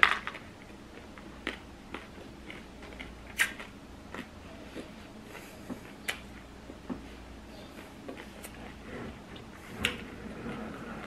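Close-up chewing of a mouthful of hard-shell shrimp taco, with short crunches and mouth clicks every second or two and a louder crunch right at the start.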